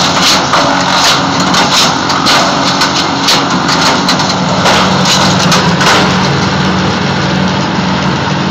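Wood chipper's engine running steadily, with a rapid run of sharp cracks and snaps for about the first six seconds as wood goes through the cutter, then running with fewer cracks.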